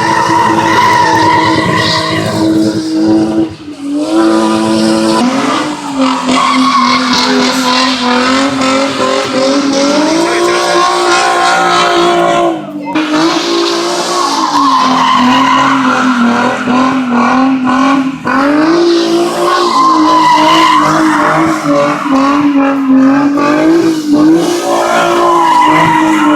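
Car tyres squealing continuously as a car slides under power, with the engine revving hard; the squeal wavers up and down in pitch and drops out briefly a few times.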